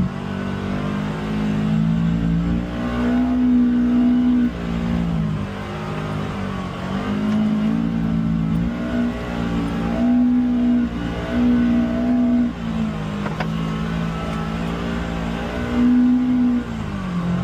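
UTV engine running under constantly changing throttle, its pitch rising and falling again and again as it is accelerated and eased off.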